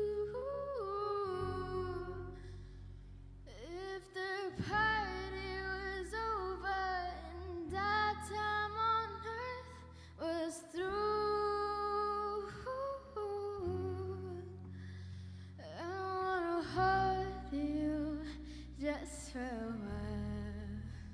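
Female voice singing a slow melody in phrases with vibrato, over a sustained low accompaniment that changes chord every couple of seconds.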